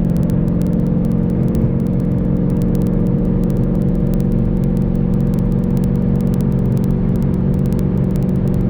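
Car engine and road noise heard from inside the cabin while cruising at a steady speed, a steady drone that neither rises nor falls in pitch. Faint scattered clicks run through it.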